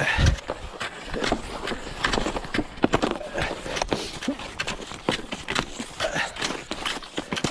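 Cross-country skis scraping and sliding in set classic tracks, with the poles planting in the snow: a steady run of clicks, crunches and scrapes.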